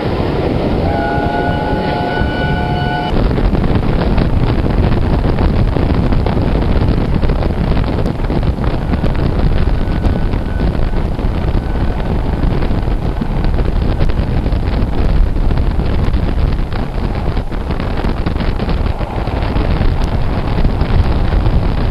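A passenger train running at speed, heard from an open window: a steady loud rush of wind on the microphone over wheel and track rumble. About a second in, a brief pitched tone with several notes together sounds for about two seconds.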